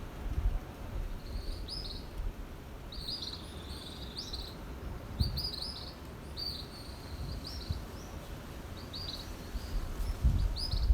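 Birds chirping in short, high, repeated phrases, about one every second, over a steady low rumble.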